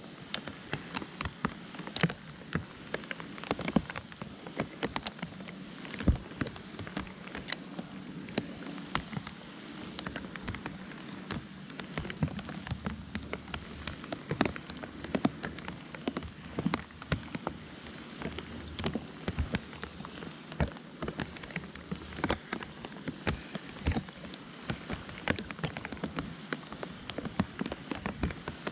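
Steady rain: a soft hiss with many drops striking a close surface in sharp, irregular taps.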